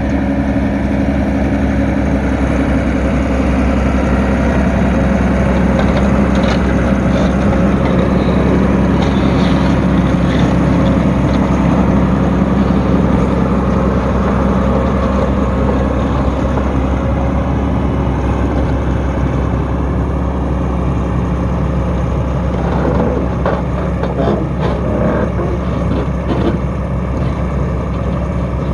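Volvo EC230B tracked excavator's diesel engine running steadily. Near the end come several seconds of clanking and rattling.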